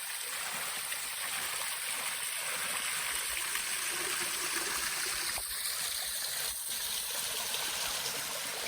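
Steady rush of flowing water from a waterfall-fed creek.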